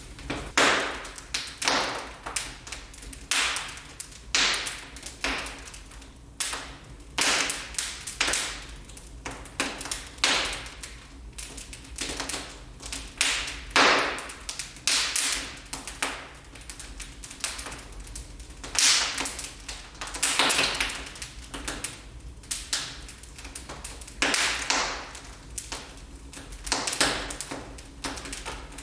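Wood fire in a fireplace crackling, with irregular clusters of sharp snaps and pops every second or two.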